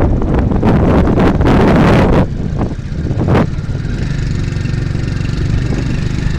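Wind buffeting the microphone for about two seconds, then an engine running steadily underneath as the wind drops.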